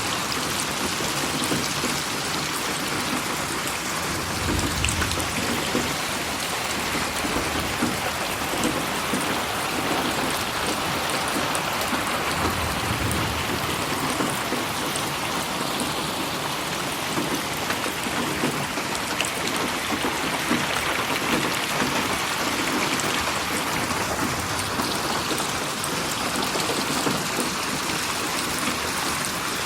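Steady, dense rain falling and pattering on surfaces, processed as 8D audio that moves the sound around the listener. Two brief low rumbles come about five and thirteen seconds in.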